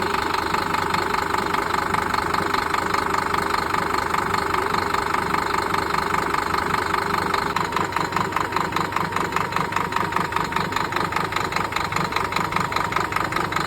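Scania five-cylinder diesel truck engine idling after an injector change and a bleed of air from the diesel line. Its running turns into an evenly pulsing beat about halfway through.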